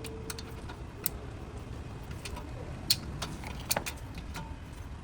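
Scattered light metallic clicks and taps at irregular intervals, a few sharper ones about three seconds in, over a steady low rumble: hand tools and small parts being handled during car work.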